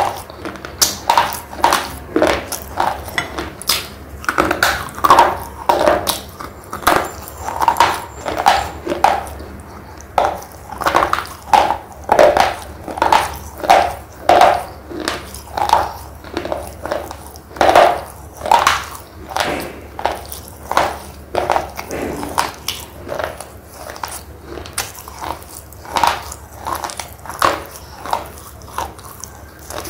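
Close-miked chewing of thick red slate pencil: a steady run of dry crunches, about one to two a second, as the pieces are bitten and ground between the teeth.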